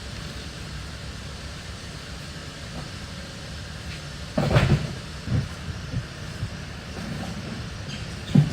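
Junk being tossed into a truck bed: a few thuds and clatters, the loudest cluster about four and a half seconds in, over a steady low rumble.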